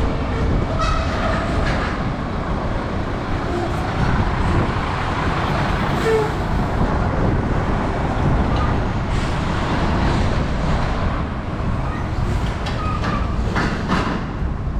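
Steady rumble of road traffic, with a few brief higher tones here and there.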